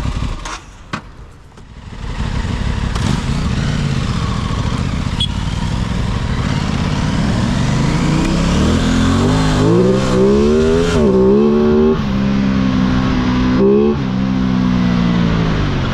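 Aprilia 660 parallel-twin motorcycle engine revving. It dips briefly about a second in, then climbs in pitch over several seconds, wavers high and eases off near the end.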